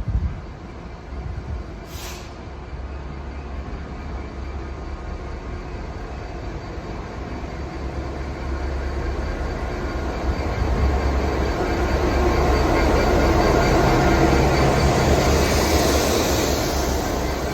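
Train moving through a station platform, a steady rumble that builds to its loudest about two-thirds of the way through. A hiss of higher noise follows near the end, and there are two sharp clicks, one at the start and one about two seconds in.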